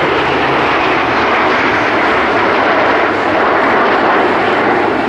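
Steady, loud roar of PZL TS-11 Iskra jet trainers' turbojet engines during an aerobatic display.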